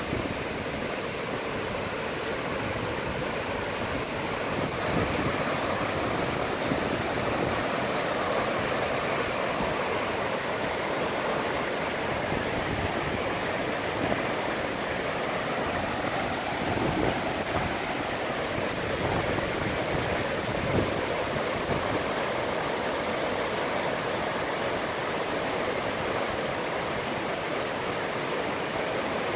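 Rushing floodwater from a river that has burst its banks, a steady churning roar of moving water.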